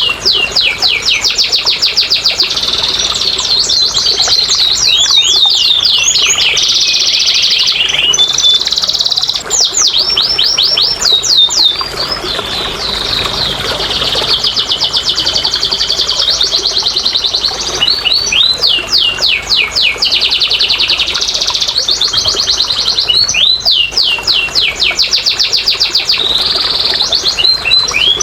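Domestic canary singing a long, almost unbroken song of fast rolling trills: each phrase is a quick run of repeated high sweeping chirps, changing to a new phrase every second or two. It is a lure song, played to prompt a reluctant canary to sing.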